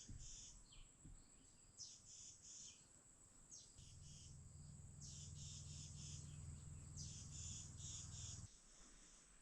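Faint insects chirping in repeated high-pitched pulses. A low steady hum joins them for a few seconds in the middle.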